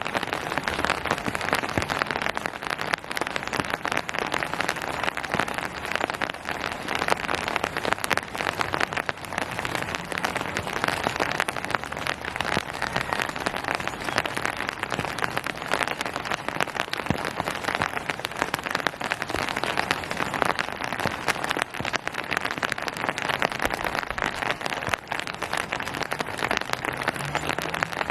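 Steady rain falling on surfaces, a dense even patter of many drops.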